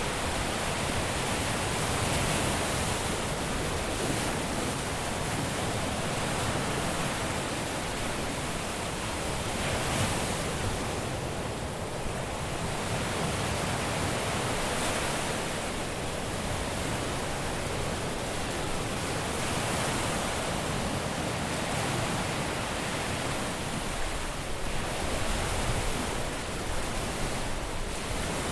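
Caribbean sea waves breaking and washing onto a beach: a continuous surf wash that swells and ebbs every few seconds.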